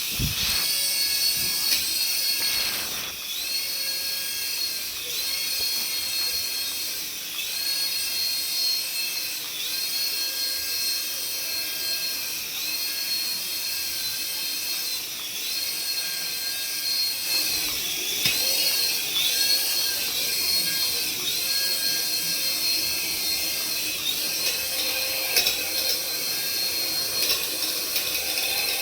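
High-pitched whine of a remote-control toy's small electric motor running, its pitch dipping briefly and recovering about every second or two as the throttle is worked.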